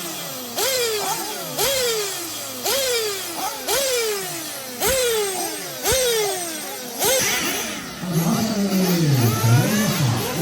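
Small nitro engines of 1/8-scale off-road RC buggies being revved hard and backing off. The rising and falling whine repeats about once a second, and from about seven seconds in several engines overlap at different pitches.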